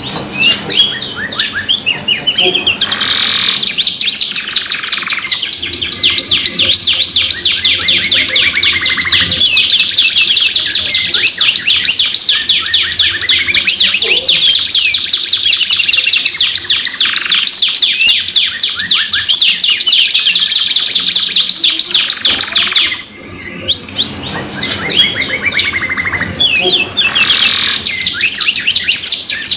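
Canary singing a long, continuous song of fast trills and rolls, with a short break about three-quarters of the way through before it picks up again.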